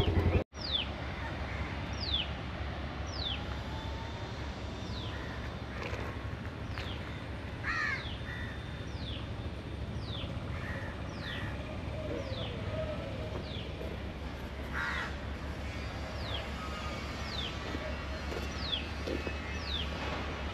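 Birds calling: a sharp falling whistle repeated roughly once a second, with a few crow caws in between, over a low steady hum.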